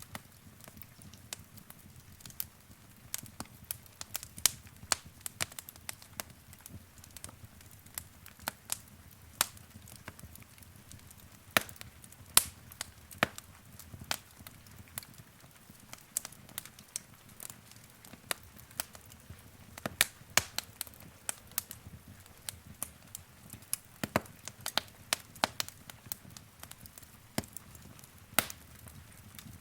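Wood fire in a fireplace crackling: irregular sharp pops and snaps, some much louder than others, over a low steady rumble of the flames.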